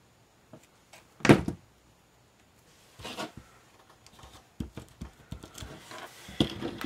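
Handling sounds of paper-crafting at a table: scattered light clicks and taps as card pieces and small embellishments are picked up and set down, with one louder knock about a second in and a run of quicker small clicks near the end.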